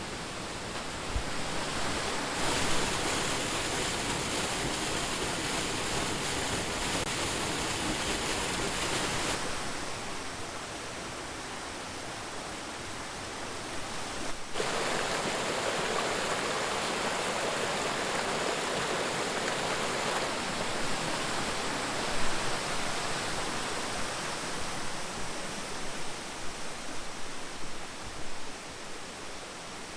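Rushing water of a waterfall and its rocky stream, a steady roar of spray and splashing. Its strength and pitch jump suddenly a few times, as if heard from different spots along the falls.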